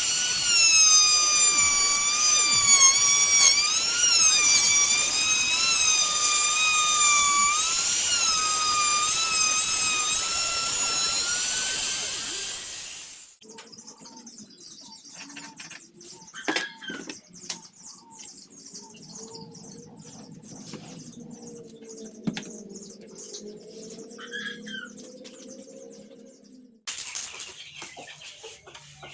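Electric saw motor running with a high whine that dips and recovers in pitch, as under cutting load, for about the first half, then stops abruptly. After that come quieter scattered knocks and clicks.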